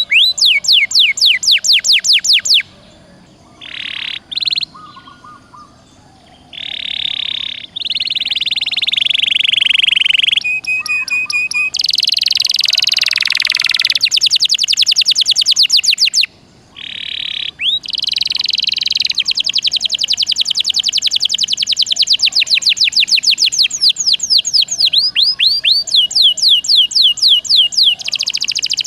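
Domestic canary singing: fast trills of repeated high sweeping notes, strung into long varied phrases with a few short pauses.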